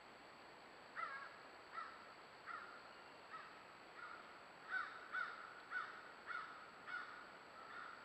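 A bird calling in a series of short, faint calls, starting about a second in and coming faster, about two a second, in the second half.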